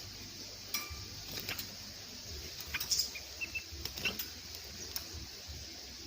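Scattered light clicks and taps of a small bird, a yellow-vented bulbul, moving about in a metal box cage, with a few brief high chirps.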